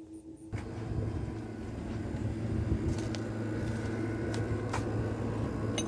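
A steady low mechanical hum starts suddenly about half a second in, with a few scattered light clicks over it.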